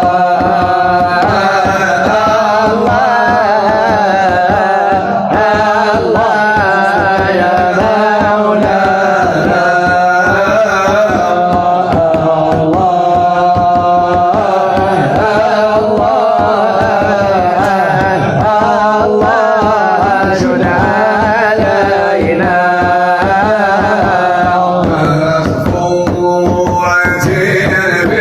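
Islamic devotional song (madih/nasheed): a voice singing a wavering melody over steady drum accompaniment.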